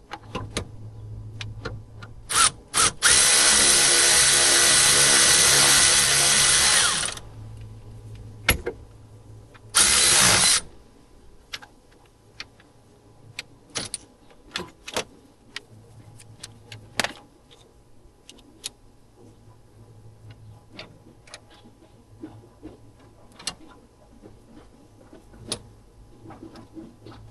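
Cordless power tool tightening a bolt: two short blips about two seconds in, then a steady run of about four seconds, and one more short burst a few seconds later. Scattered light clinks of tools follow.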